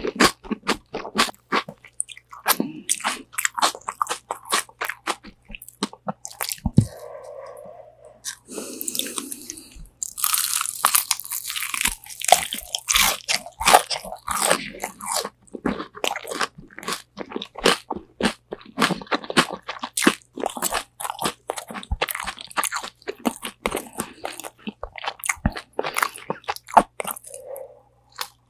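Close-miked biting and chewing of crispy-coated Korean fried chicken wings: a steady run of sharp crunches, thickest in a fast crackling stretch about ten to thirteen seconds in, with a softer, sparser moment a few seconds before it.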